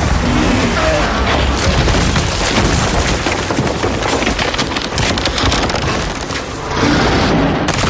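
Disaster-film sound effects of a collapsing-city earthquake scene: a dense din of booms and crashing, with a brief lull about six and a half seconds in before it surges back.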